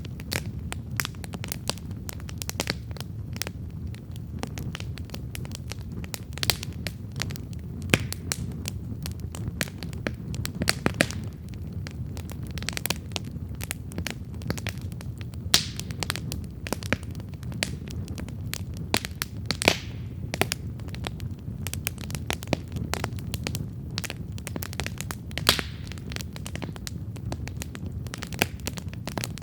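Wood campfire burning with steady crackling and frequent sharp pops and snaps over a low, even rumble of the flames.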